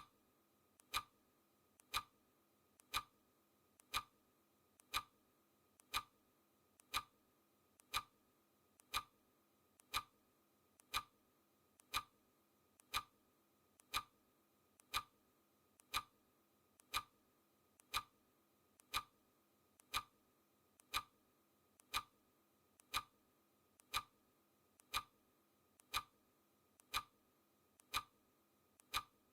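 Clock ticking sound effect: a sharp, even tick once a second, counting down the timer.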